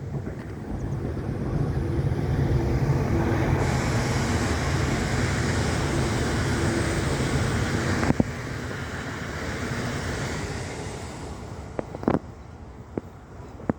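Electric Metro suburban train passing at speed. The rumble and rail hiss build over the first couple of seconds, hold for several seconds, and die away after about ten seconds. There is one sharp knock about eight seconds in.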